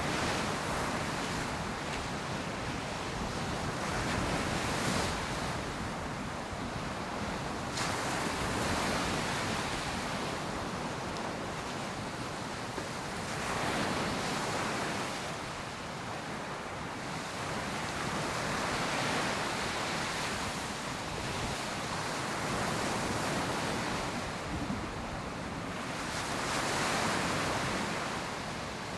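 Ocean surf breaking on a beach, a steady wash that swells and eases every few seconds as waves come in, with some wind on the microphone.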